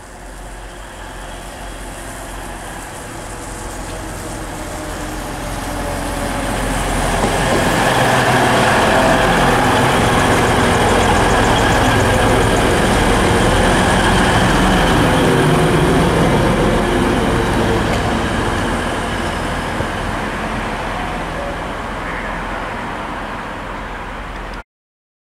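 TransPennine Express Class 185 diesel multiple unit running past, its engines and wheels on the rails growing louder as it approaches, loudest for several seconds in the middle, then fading. The sound cuts off suddenly near the end.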